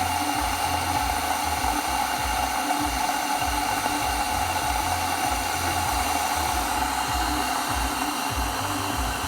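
Electric kettle heating water toward the boil: a steady rushing hiss with an uneven low rumble underneath.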